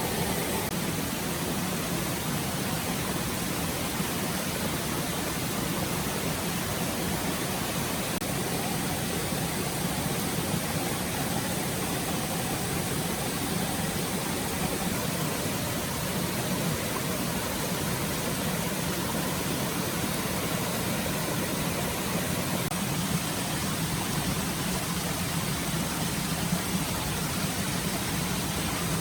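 Forest stream running water, a steady, even rush without a break.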